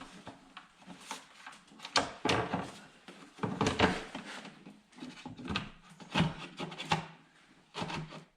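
Irregular clunks, knocks and rubbing of parts and tools being handled while an engine's air intake and air box are fitted back in place, with a few sharper knocks among them.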